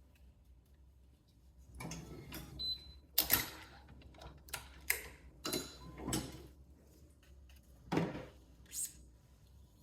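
A series of short clicks and rustles, about eight in all, from a badminton racquet and its string being handled during restringing.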